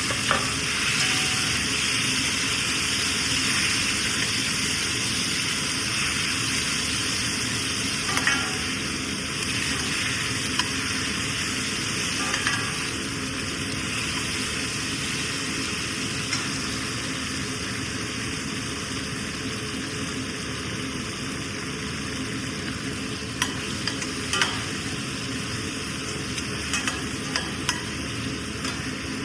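Food sizzling steadily in hot oil in a pan, slowly quietening, with a few sharp taps and scrapes of a stirring spoon against the pan.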